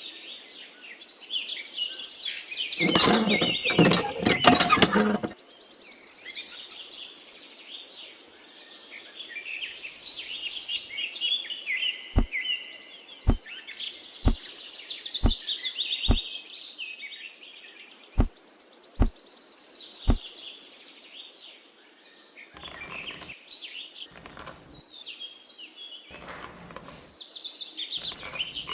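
Small birds chirping and twittering throughout. A louder, rougher burst of noise comes about three to five seconds in, and a run of about eight short knocks, roughly a second apart, falls in the middle.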